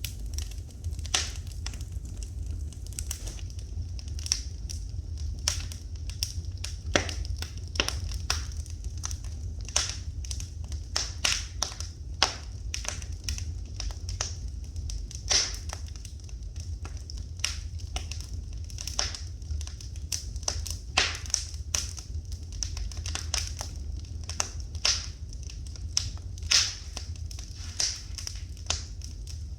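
Wood fire in a fireplace crackling, with irregular sharp pops and snaps every fraction of a second over a steady low rumble.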